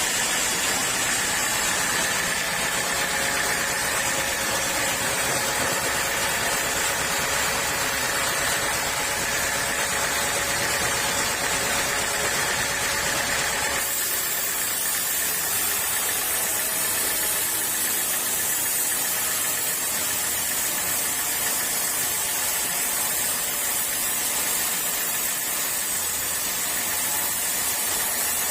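Sawmill saw running steadily while cutting teak, a continuous mechanical hiss and hum with a faint steady whine. About halfway through, the highest hiss drops away suddenly while the machine keeps running.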